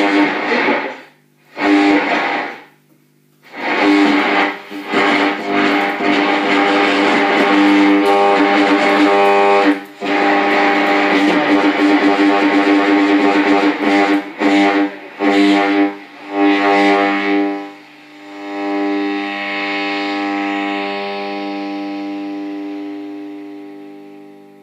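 Experimental drone music made with an old tube radio: a held chord of steady tones under bursts of noise that repeatedly cut in and out. About three-quarters of the way through the noise drops away, leaving the sustained drone, which fades out near the end.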